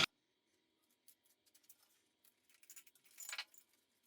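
Near silence, with a few faint light clicks and a short, soft rustle about three seconds in.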